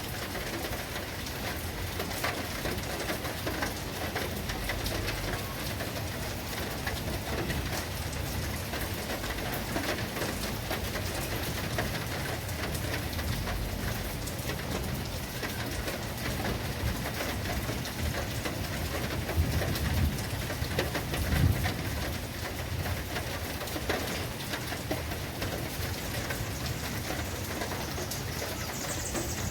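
Steady heavy rain falling and pattering on surfaces, with a few louder low bumps about twenty seconds in.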